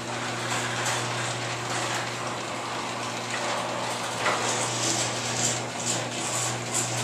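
A new Chamberlain garage door opener running: a steady motor hum, with the door clattering and rattling as it travels along its tracks.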